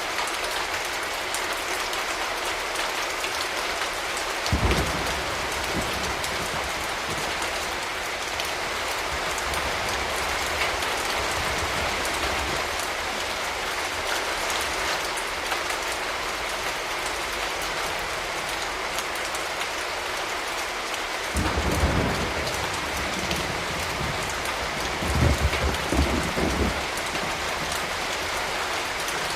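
Steady rain falling and pattering on surfaces, an even hiss. Three times, briefly, a low rumble rises under it: once early, then twice in the last third.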